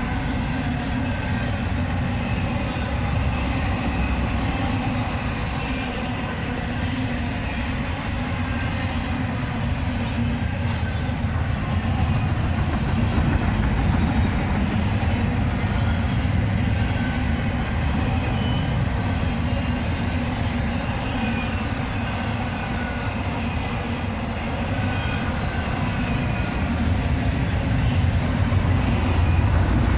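Double-stack intermodal freight train passing close by, a steady heavy rumble of wheels on rail, with faint high squeals from the wheels at times.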